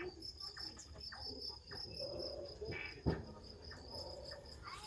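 Chorus of crickets, an even, rapid high chirping that carries on steadily. A single sharp knock sounds about three seconds in.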